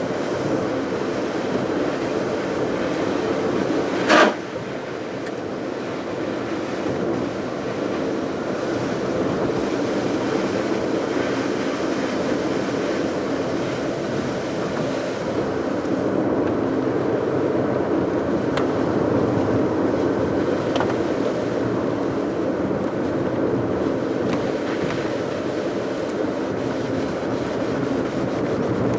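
Car driving on a rain-wet road: steady tyre and road noise, with one sharp knock about four seconds in.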